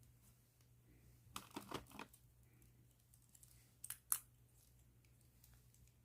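Light handling clicks from pens: a quick cluster of small clicks and rustles about a second in, then two sharp clicks around four seconds in.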